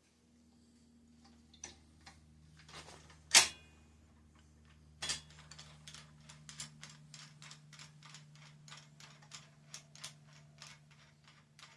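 Headset cup press being tightened to seat a bicycle headset cup: a sharp metal click, then a run of regular light clicks, about three a second, as the press is turned down. A steady low hum underneath.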